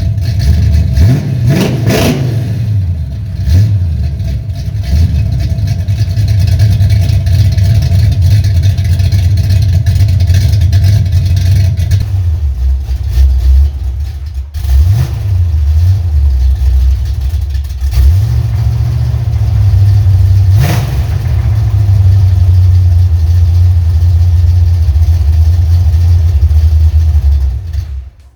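Pontiac 400 V8 running through true dual exhaust with no cats, idling with a few blips of the throttle. The first half is through Flowmaster Super 10 mufflers and the second half through Cherry Bomb Turbo mufflers, with a short break at the switch about halfway.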